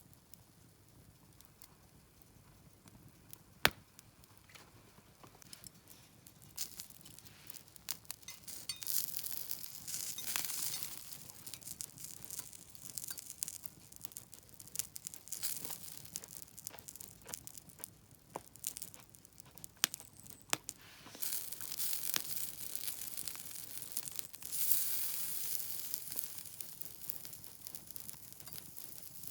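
Campfire cooking: sharp crackling pops with swells of sizzling hiss. It is quiet at first, with one sharp crack a few seconds in, then builds into a busier run of pops and hiss.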